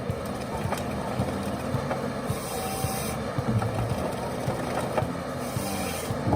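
Ecolog 590E forestry harvester working, its engine and hydraulics running steadily, with a hissing rush that comes back about every three seconds.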